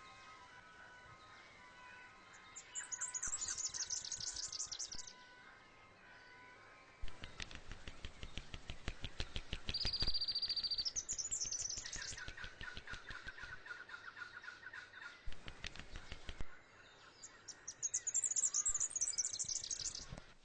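Woodland birdsong: repeated high chirping trills over faint background music, with a long stretch of rapid clicking or rustling in the middle.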